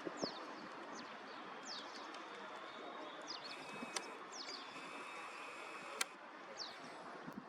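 Small birds giving short, high, falling chirps every second or so over steady outdoor background noise. Two sharp clicks stand out, the louder one about six seconds in.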